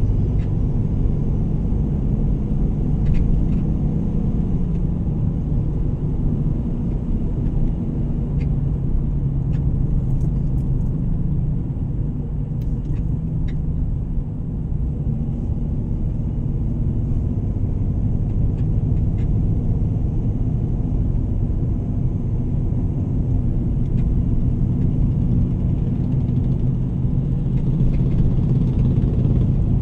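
A moving vehicle's engine and road rumble, steady and low, with the engine note easing slightly about halfway through and rising again near the end.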